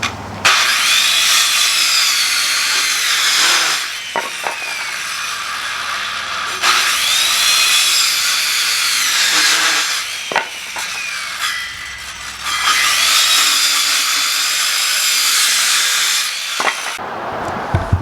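Power saw cutting wood in three runs of a few seconds each, the motor's pitch climbing as each cut starts, with a few sharp knocks in the pauses between cuts.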